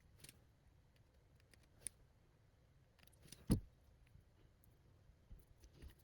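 Small wire cutters snipping wires short: a few separate sharp clicks, the loudest about three and a half seconds in with a dull knock.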